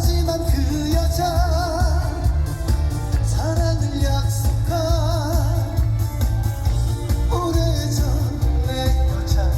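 Male trot singer singing live over loud amplified backing music with a heavy, pulsing bass; his held notes waver with a wide vibrato.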